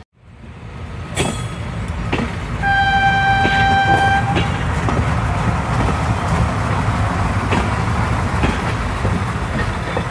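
Train running along the tracks, its wheels clicking over the rail joints under a steady rumble. About three seconds in, a train horn sounds once, held for nearly two seconds.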